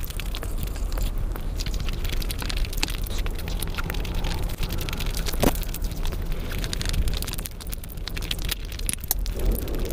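Close-miked eating sounds: chewing and wet lip smacking, with many small crackling clicks from the mouth.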